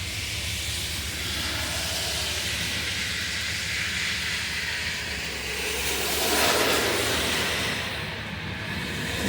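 Heavy thunderstorm rain falling in a steady hiss, swelling louder about six seconds in and easing again near the end.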